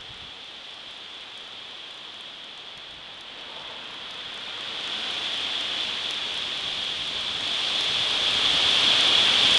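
Gusting wind rushing through the leaves of a large oak tree, a gust building from about three seconds in and growing steadily louder.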